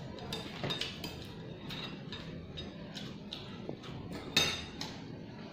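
Metal eating utensils clinking against a bowl: a string of short, irregular clinks, with one louder knock about four seconds in.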